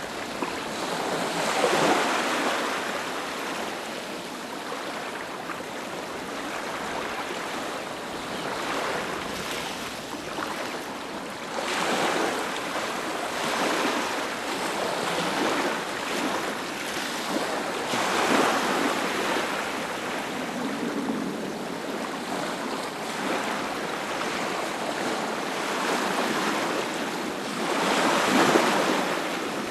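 Sea waves breaking on a beach: a continuous wash of surf that swells into a louder breaker four times, several seconds apart.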